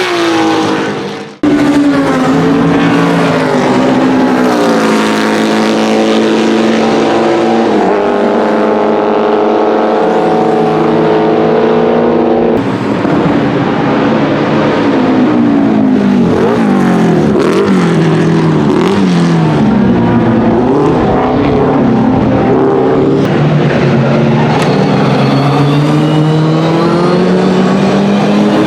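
Porsche 904 GTS's 2.0-litre Type 587/3 flat-four racing engine, loud, revving up and down with its pitch climbing through the gears and dropping off again. The sound jumps abruptly twice, about a second and a half in and again about twelve seconds in.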